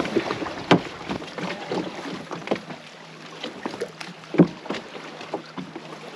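Paddling on a lake: irregular water splashes and knocks, the loudest a little under a second in and again past four seconds.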